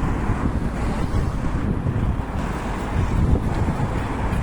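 Wind buffeting the microphone: an uneven low rumble with no other distinct sound standing out.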